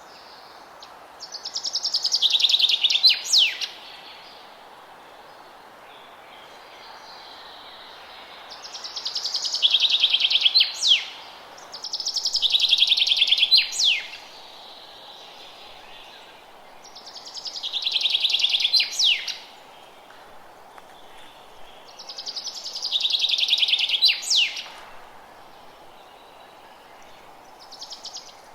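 A songbird repeating the same song phrase, a fast buzzy trill ending in a few sharp slurred notes, about two to three seconds long, five times with pauses of a few seconds, and starting a sixth at the very end. A steady soft hiss of background noise runs beneath it.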